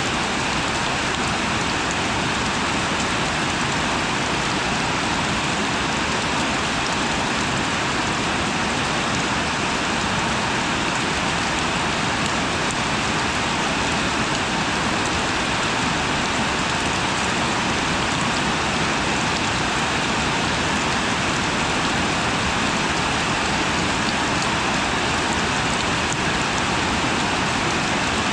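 Steady rain falling, an even, constant hiss of drops with no change in strength.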